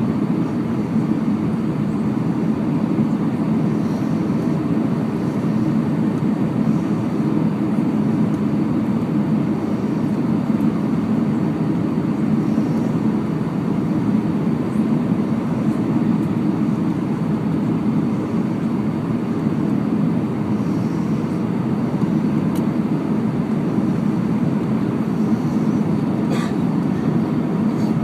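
Steady airflow rush and engine drone inside the cabin of an Airbus A319 airliner in flight, descending toward landing, with one faint click near the end.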